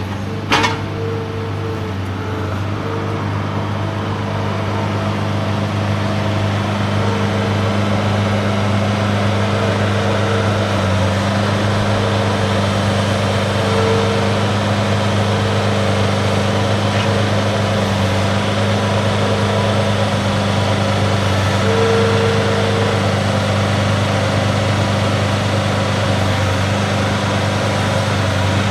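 An engine running steadily at constant speed, with a sharp click about half a second in.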